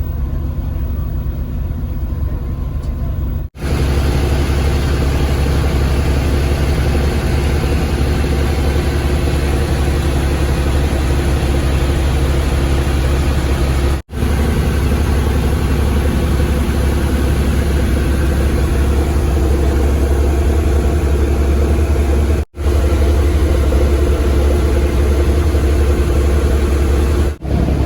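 Fishing boat's engine running steadily with a deep, even hum. The sound drops out for an instant four times: about three and a half, fourteen and twenty-two seconds in, and again near the end.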